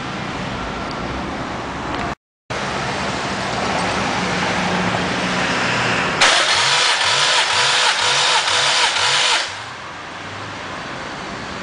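Starter motor cranking a Honda K20A four-cylinder engine for about three seconds as it is turned over for a compression test, a whine with an even pulsing of roughly three beats a second. Steady hiss before and after, broken by a brief cut to silence about two seconds in.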